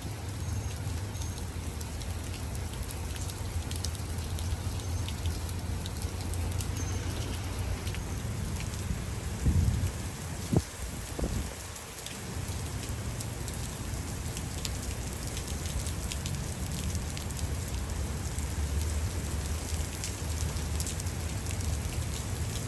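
Steady rain falling hard in a thunderstorm, with a low rumble of thunder underneath. A few short, loud thumps come about halfway through.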